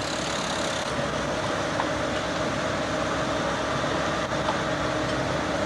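A motor vehicle's engine idling steadily: an even rumble with a faint constant hum.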